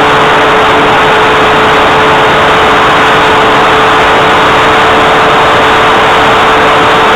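Cessna 182 light aircraft's piston engine and propeller droning steadily in flight, heard from aboard: a loud, unchanging drone with a constant humming tone.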